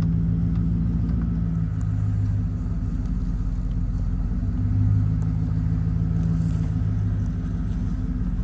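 Vehicle engine running steadily at low speed, a deep hum that swells slightly twice as the vehicle moves along.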